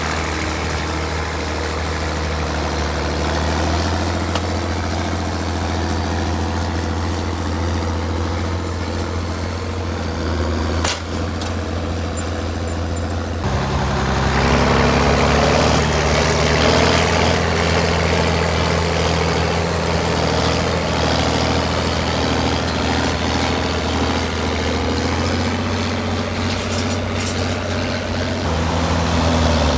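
Heavy tractor engines running steadily as they pull plows, a low, even engine drone. The engine note changes abruptly about 13 seconds in and again near the end.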